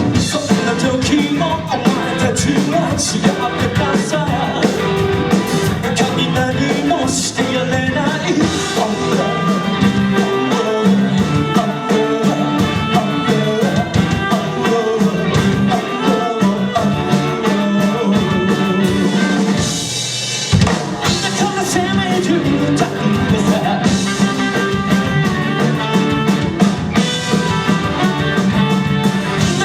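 Live rock band playing a song, with drum kit and a lead singer.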